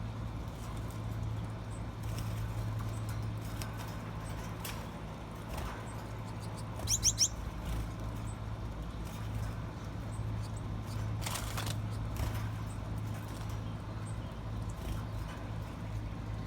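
Aviary finches giving a few short high chirps, the loudest a quick run of three rising chirps about seven seconds in, over a steady low hum.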